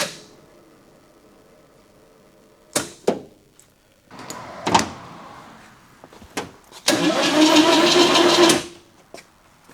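Starter motor on a 1984 Chevrolet S10 Blazer's 2.8 V6 being tried on a weak battery: a few clicks, then a short burst of cranking lasting under two seconds that stops without the engine catching.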